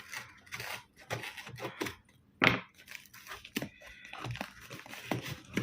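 A product box and its packaging being opened by hand after the tape is cut: irregular tearing, rustling and light knocks, with one sharper snap about two and a half seconds in.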